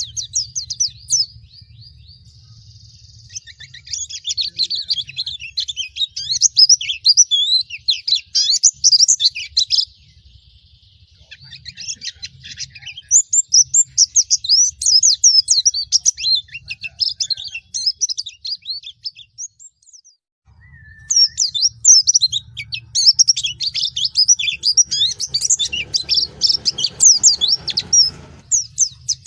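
Pleci (white-eye) singing in long runs of rapid, high chirps and trills, broken by short pauses between phrases, over a faint low hum.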